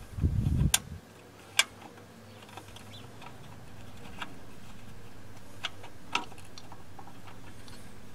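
Scattered sharp clicks and taps of hand tools and small metal parts being handled, about five in all, after a brief low rumble of handling at the start. A faint steady hum sets in about halfway through.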